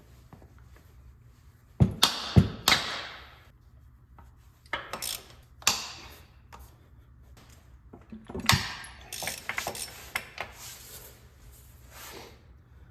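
Hand tools on bolts: metal clinks and clanks in three bursts, loosening the bolts that hold the transmission to the engine block.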